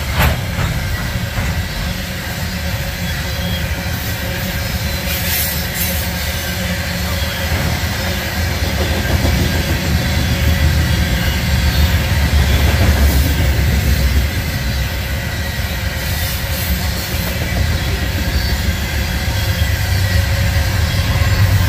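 A freight train of loaded Canpotex potash covered hopper cars rolling past close by: a steady heavy rumble and rattle of steel wheels on rail. A deeper hum builds near the end as a Canadian Pacific locomotive in the train draws near.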